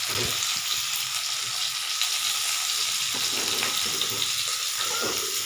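Grated carrot frying in cow ghee in a non-stick pan, giving a steady sizzle, with a steel spatula stirring and scraping through it.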